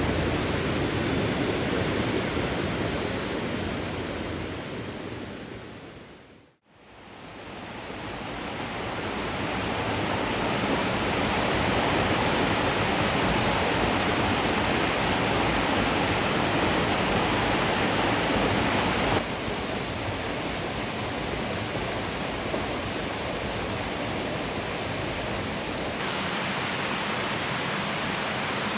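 Rushing river water, a steady hiss of flowing water. It fades out to silence about six seconds in, then fades back up.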